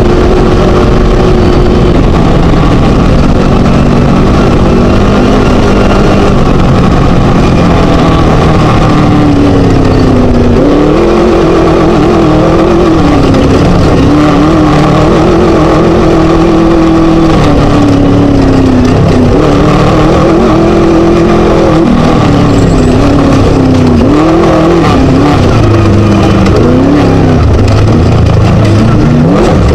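Scat four-cylinder engine of a Chenowth DR2 Class 1 desert race buggy running hard at race pace, loud throughout. Its pitch holds fairly steady at first, then rises and falls again and again with throttle and gear changes.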